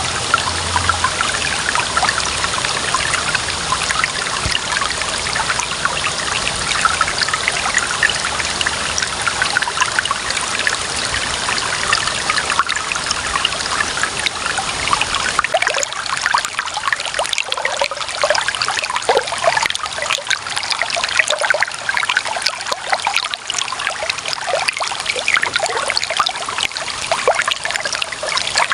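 Clear running water trickling and splashing steadily, with many small droplet splashes. About halfway through the low rumble drops away and the brighter trickling stands out more.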